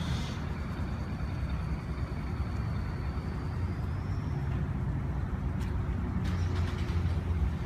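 Honda Grom's small 125 cc single-cylinder engine running at low speed through a slow weaving ride, a steady low rumble with a faint thin whine in the first half.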